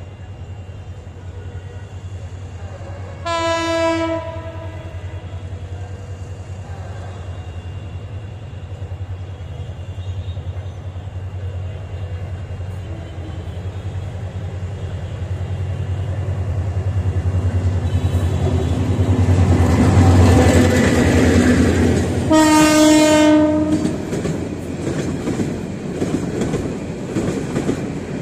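Diesel locomotive hauling a container freight train approaches with a steady low engine rumble that grows louder. It gives a short horn blast about three seconds in and a longer one as it comes level, about 22 seconds in. The container wagons then roll past with a clickety-clack of wheels over the rail joints.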